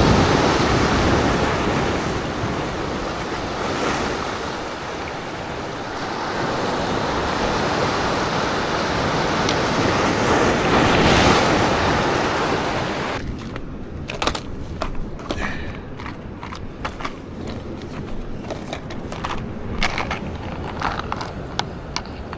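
Sea waves surging and washing against the shore, with wind, swelling and easing for about thirteen seconds. Then it cuts off abruptly to a quieter background with scattered sharp clicks and taps.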